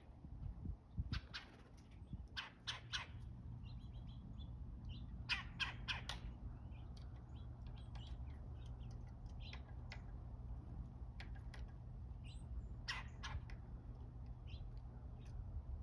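Harsh, raspy bird calls in short clusters of two to four, with a few fainter chirps between them over a steady low hum.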